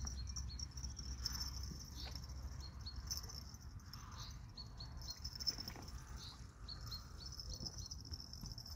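Small songbirds chirping in short, quick runs of high notes, over a steady high hiss and a low rumble.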